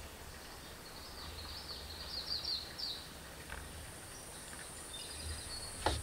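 Faint birdsong in forest: a songbird's quick run of high chirping notes about a second in, and a short trill near the end, over a low rumble.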